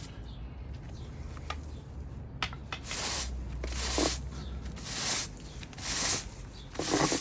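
Brush sweeping debris off a garden wall and path: a couple of light taps at first, then from about three seconds in a run of swishing strokes, roughly one a second.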